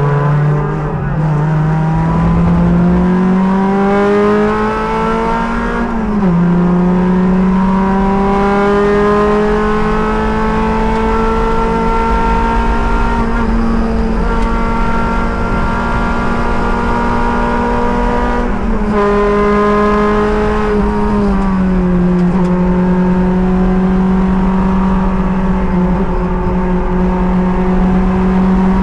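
Race car engine under hard acceleration on track, its pitch climbing through the revs. It drops sharply at a gear change about six seconds in and falls again around two-thirds of the way through as the car slows, then pulls steadily on.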